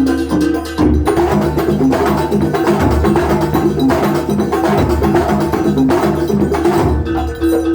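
Kuntulan ensemble playing Banyuwangi traditional music: a melody of short struck metallophone-like notes over drums. The playing grows denser about a second in and thins out again near the end.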